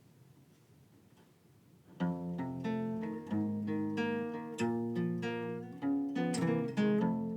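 Near silence, then about two seconds in a guitar begins the song's intro, a run of plucked notes, each ringing and fading.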